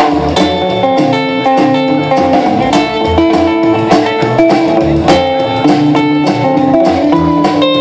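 Live rockabilly band playing an instrumental break: electric guitar solo over a walking bass and a steady drum beat.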